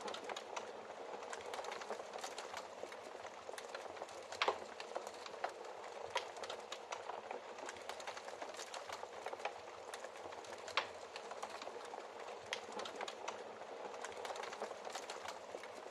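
Wood fire crackling steadily in a fireplace, with a hiss of burning and irregular sharp pops and snaps, the loudest about four and a half seconds in and again near eleven seconds.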